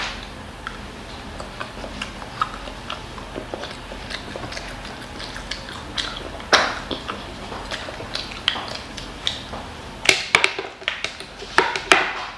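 A child chewing a mouthful of kimchi fried rice and Spam close to the microphone, with wet mouth clicks. Scattered clicks of chopsticks and a wooden spoon, with a cluster of louder clicks and knocks near the end.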